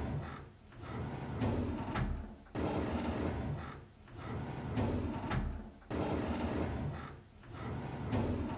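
A drawer sliding open, the same sound repeating about every three and a half seconds, each time starting suddenly and trailing off.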